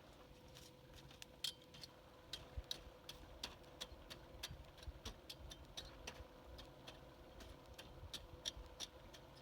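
Wood campfire crackling with sharp, irregular pops, several a second, as it burns down to embers for cooking.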